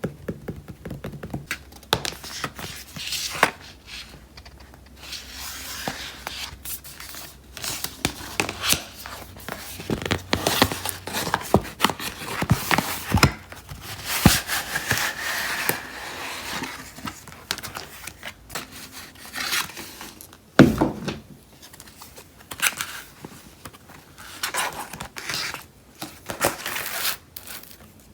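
Packaging being handled and opened by hand: irregular crinkling, rustling and tearing of plastic and paper, with small clicks and one heavier knock about 20 seconds in.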